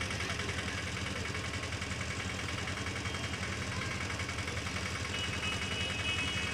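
Tractor's diesel engine idling steadily with an even throb. A faint high steady tone joins about five seconds in.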